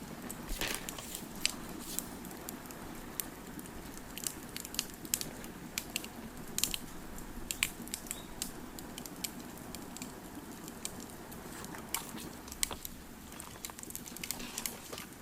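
Wood fire crackling: irregular sharp pops and snaps over a low steady rumble of burning.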